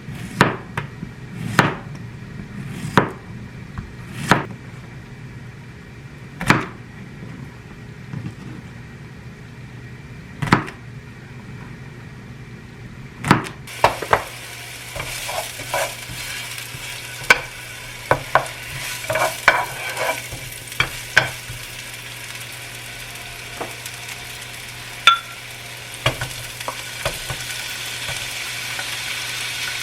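Cooking in a frying pan: a series of separate utensil knocks, then from about halfway the sound of food sizzling, with quick clicks and scrapes of stirring. A steady low hum runs underneath.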